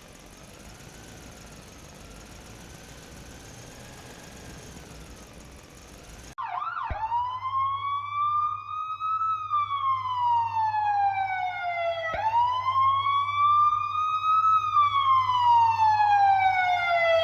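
Siren wailing, starting suddenly about six seconds in and sweeping slowly up and then down in pitch, twice. Before it there is only a faint steady noise.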